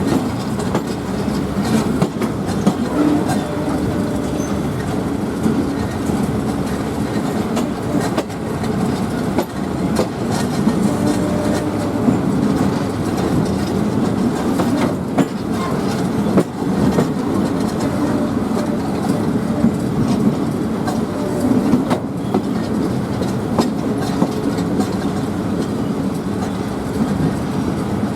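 Passenger train running on the rails, a steady rumble with irregular clacks of wheels over rail joints.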